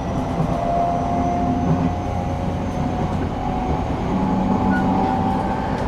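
Inside a moving passenger train: steady rumble of wheels on the rails, with a faint whine that rises slowly in pitch.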